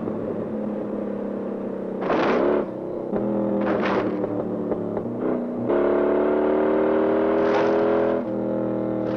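A V8 muscle-car engine running hard at speed, its pitch shifting as the driver works the throttle. It is held at a high, steady note for a couple of seconds near the end. Short harsh bursts break in about two seconds in, around four seconds in, and again later.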